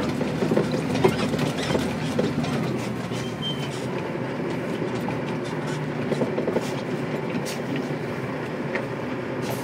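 Dump truck engine running at low speed, heard from inside the cab, with the cab rattling and clicking. A brief high squeak about three seconds in.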